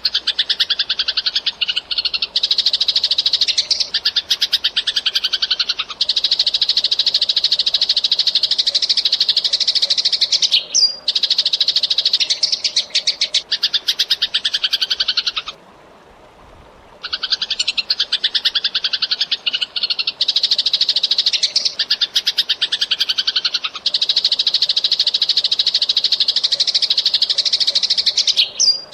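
Eurasian tree sparrow chirping in a fast, unbroken stream of high chirps. The chirping stops for about a second and a half midway, then starts again.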